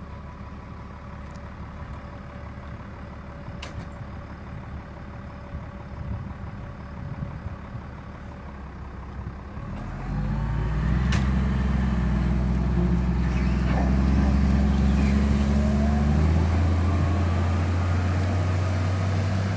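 Diesel engine of a wheel loader running. An uneven low rumble in the first half becomes a much louder, steady engine note about halfway through, and its pitch steps up a few seconds later as the engine works.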